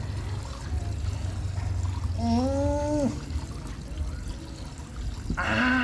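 Water trickling and pouring steadily out of containers. A man's voice gives two short hummed sounds, one about two seconds in and one near the end.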